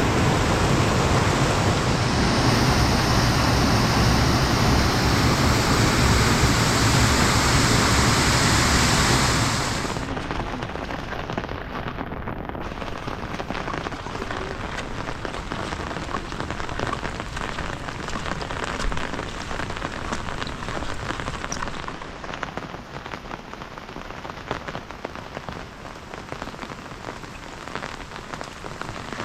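Heavy rain falling, a loud steady hiss. About ten seconds in it drops abruptly to a lighter patter of separate drops, and it softens a little more near the end.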